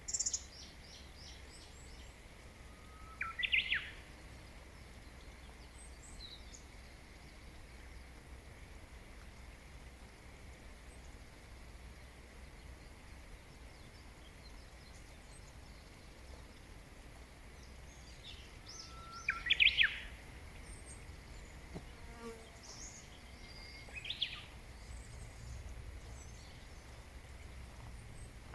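Wild birds calling now and then: a quick run of high chirps at the very start, a short upward-sweeping call about three seconds in and again near twenty seconds, and another short call near twenty-four seconds, over a faint steady background rumble.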